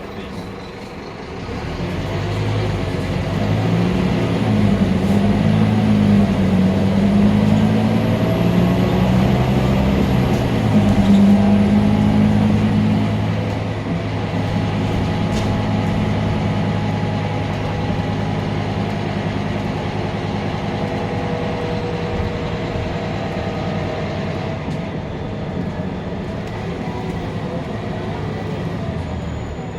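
Scania K310UB bus's five-cylinder diesel engine pulling away. It grows louder about two seconds in and shifts in pitch as it accelerates, then eases about halfway through into a steadier, slightly quieter run.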